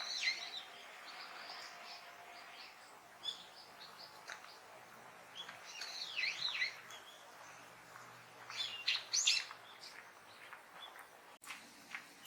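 Small birds chirping: bursts of quick high calls with up-and-down sweeps, once at the start, again about six seconds in and again about nine seconds in.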